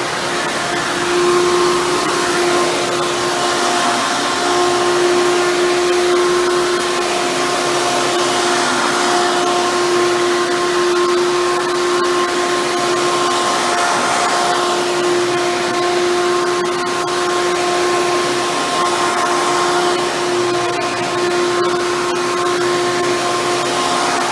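Hoover Bagless Twin Chamber upright vacuum cleaner running steadily, a motor whine held at one pitch over a rush of air, with slight swells in loudness.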